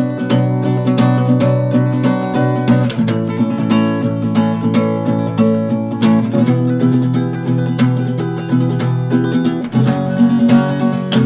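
Acoustic guitar strummed in a steady rhythm, chords changing every few seconds: the instrumental break between verses of a song, with no singing.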